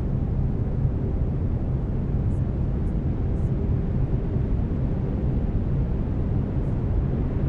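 Steady brown noise: an even, deep rushing hiss weighted to the low end, holding one level throughout.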